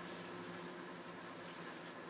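Quiet room tone: a steady hiss with a faint low hum and no distinct events.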